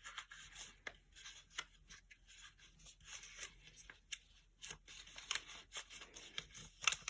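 A square of origami paper being folded and creased by hand, making faint, irregular crinkles and little crackles.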